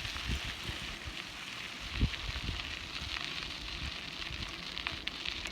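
Bicycle tyres rolling over a gravelly dirt road: a steady crunching hiss with low rumble, and a single knock about two seconds in as the bike goes over a bump.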